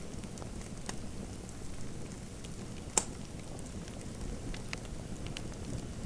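Fireplace fire crackling: a low steady rumble with scattered small pops, and one sharp crack about three seconds in.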